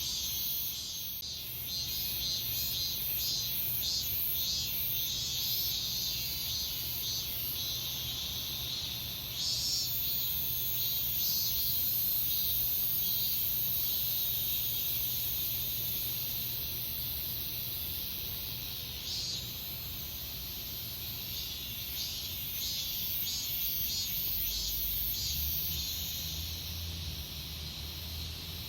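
Cicadas singing in chorus, a high-pitched buzz that pulses rhythmically at first, holds as one continuous drone in the middle, then turns back to pulsing near the end.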